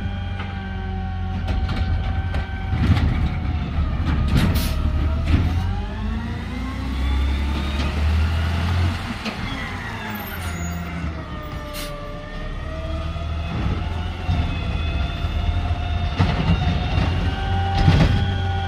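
Garbage truck working, its engine rumbling under a hydraulic whine that slowly rises and falls in pitch, with scattered knocks and clanks.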